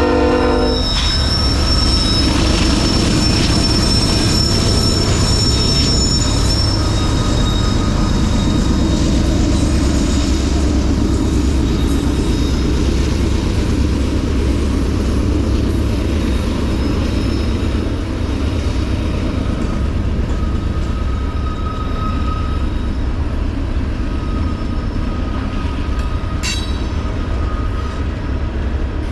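Mixed freight train passing close by: the locomotive horn's last blast cuts off about a second in, then a steady heavy rumble of the train rolling past, with thin high-pitched wheel squeal on and off and one sharp click near the end.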